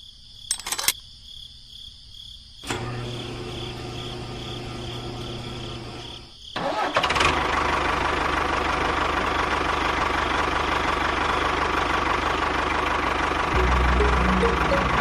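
A motor starting up and running steadily, with a low hum, becoming louder and rougher about six and a half seconds in.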